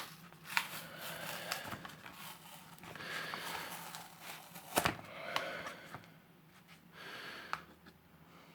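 Hands handling a freshly formed Kydex sheath and knife: scattered clicks, taps and rustles of the plastic, with one sharp knock about five seconds in.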